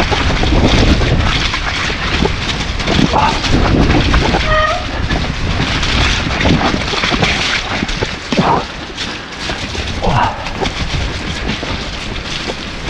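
Wind buffeting an action camera's microphone during a mountain bike descent on wet trail, with tyre noise and the rattle and knocks of a Nukeproof Giga over rough ground. A brief high squeal sounds about halfway through.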